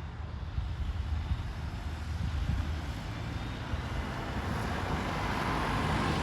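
A motor vehicle passing, its engine and road noise growing louder through the second half over a steady low rumble.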